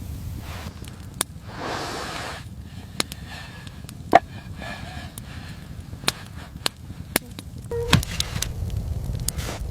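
A series of irregular sharp knocks and clicks, the loudest about four seconds in, with a short rushing swish about two seconds in, over a steady low rumble.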